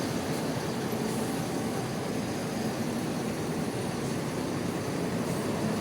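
Steady rumble of diesel bus engines running inside a bus terminal, an even noise with no distinct events.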